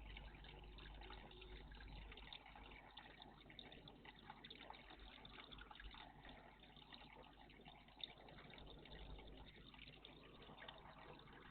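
Faint, steady trickle of water in a garden bird bath, with a single sharp click about eight seconds in.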